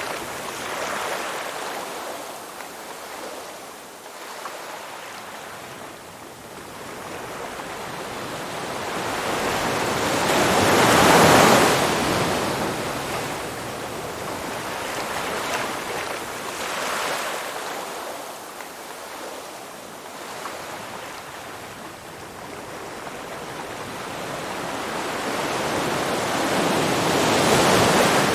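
Sea waves washing onto a shore: a rushing of water that slowly builds to a loud break about eleven seconds in, ebbs away, and swells to a second break near the end.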